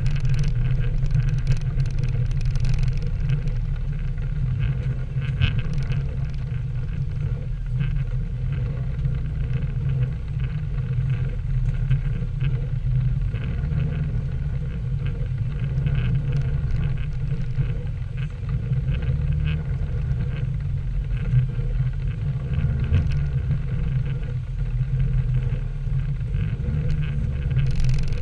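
Nissan 240SX (S13) on the move: a steady low rumble of engine and road noise, rising and falling slightly without stopping.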